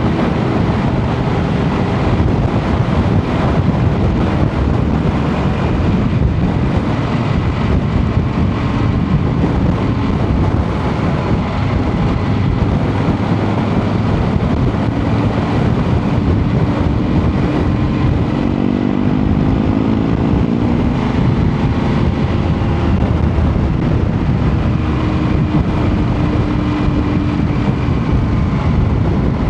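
Motorcycle engine running at steady road speed, with strong wind rushing over the microphone. About two-thirds through, a set of tones slides down in pitch for a couple of seconds, then the steady drone returns.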